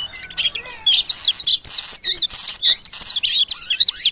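Songbirds, a jongkangan and a pleci (white-eye), singing at once: a dense run of rapid, varied chirps, whistles and trills.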